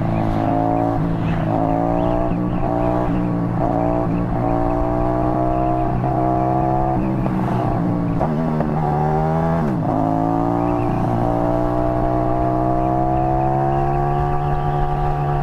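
Motorcycle engine running at cruising revs, heard from the rider's own bike. The engine note wavers a little, drops about eight seconds in as the bike slows, then rises again and climbs steadily as it accelerates.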